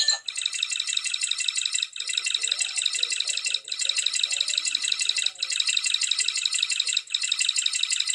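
A fast, dry rattling sound effect played as a loop, with a short break about every second and a half to two seconds.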